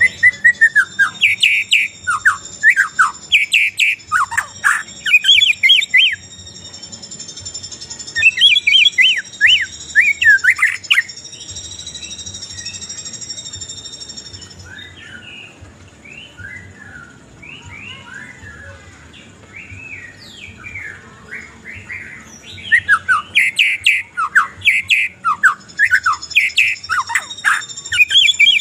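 White-rumped shama and oriental magpie-robin singing: loud bouts of rapid whistled, chattering phrases, with a quieter stretch of softer chirps in the middle. A steady high-pitched ringing drone sits under the song for the first half and comes back near the end.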